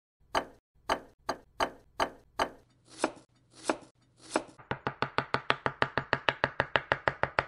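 Steel chef's knife slicing a red onion on a bamboo cutting board, each cut ending in a sharp knock of the blade on the wood. The strokes come singly, about half a second apart, then speed up at about four and a half seconds into a quick, even run of about six cuts a second.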